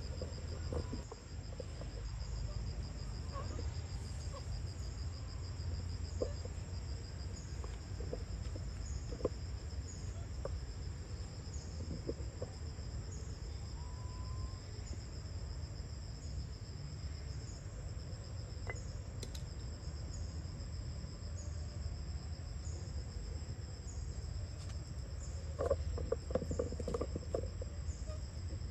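Insects trilling steadily in a high, fast pulsing chorus, over a constant low rumble. A few short clicks and knocks stand out, bunched together near the end.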